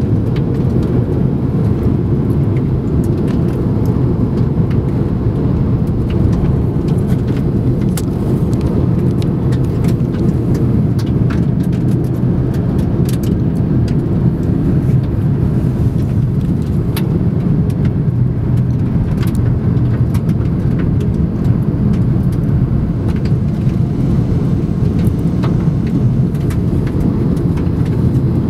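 Steady low road rumble of a car driving, heard from inside the cabin, with scattered faint ticks.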